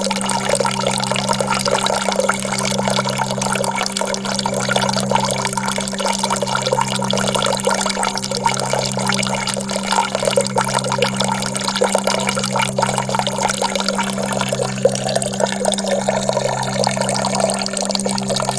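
Flowing, trickling water with dense small splashes, over a low held musical drone whose notes restart about every two seconds.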